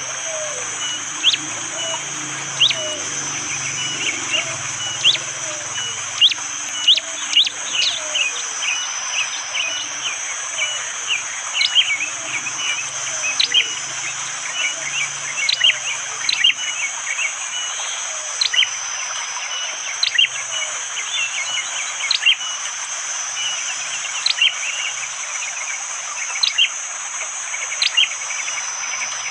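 A prinia (prenjak jali) calling in sharp, piercing notes repeated about every one to two seconds, between short chirps. Behind it run a steady high insect drone and an even background hiss.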